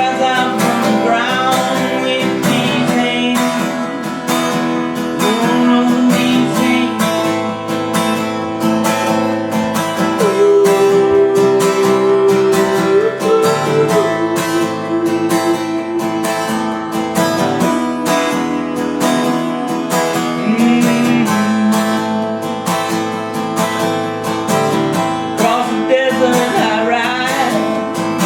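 Solo acoustic guitar playing a song in A minor, strummed and picked chords ringing on steadily.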